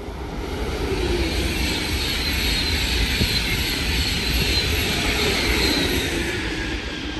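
A train passing through the station at speed: a steady rush of rolling and air noise that swells over the first second and fades near the end, with faint whines.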